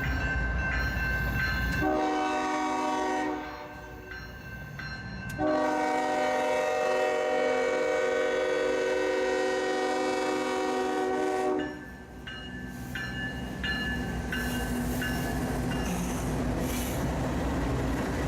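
Freight locomotive air horn sounding a short blast about two seconds in, then a long blast lasting about six seconds. A passing train rumbles underneath.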